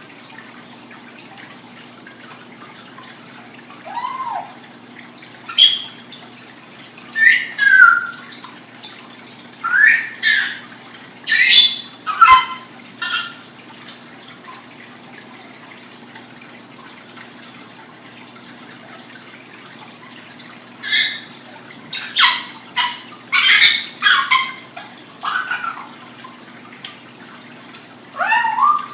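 A pet animal making short calls that rise and fall in pitch, a dozen or so in two bursts separated by a pause of several seconds.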